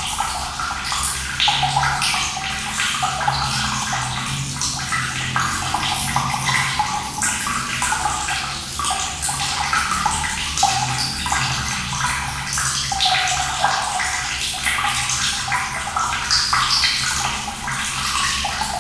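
Running water pouring and splashing steadily, a continuous burbling with many small splashes and a low rumble underneath.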